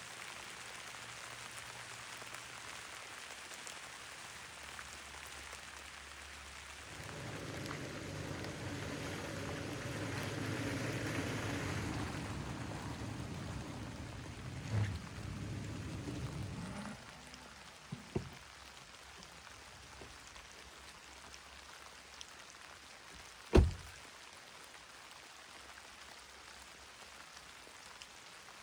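Steady rain falling, heavier and fuller from about seven seconds in until about seventeen seconds. A few sharp knocks sound over it, the loudest about twenty-three seconds in.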